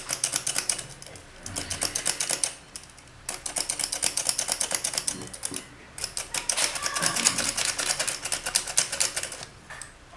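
Rapid, rhythmic clicking of a kitchen utensil against a mixing bowl as flour is worked into cake batter. It comes in four bouts, with short pauses between them.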